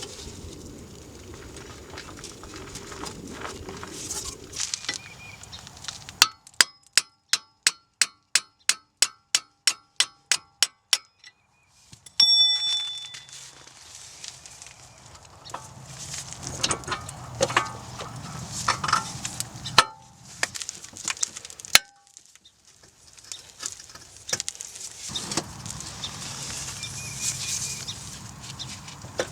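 A hammer striking metal in a quick, even run of about fifteen ringing blows, three or four a second, then a single ringing metallic clang. Around them, irregular clinks and clatter of tools and metal parts being handled.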